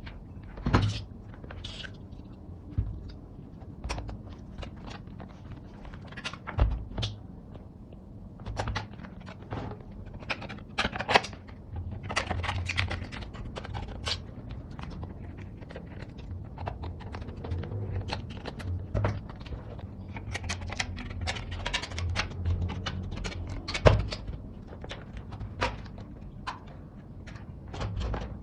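Irregular knocks, taps and scrapes of hands working with tools and small parts on a work surface, building a model from aluminium drink cans. The knocks come every second or so, and the loudest strikes fall about a second in, around 7 and 11 seconds in, and near 24 seconds.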